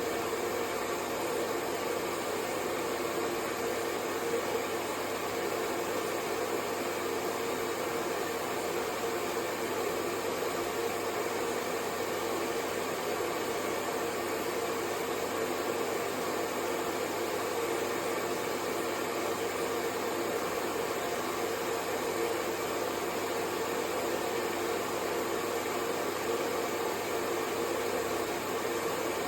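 Electric hair dryer running steadily, an even whooshing blow of air with a faint motor hum, unchanging throughout.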